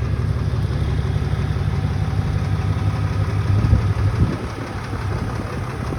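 A vehicle engine idling with a steady low rumble, briefly louder and rougher about three and a half seconds in.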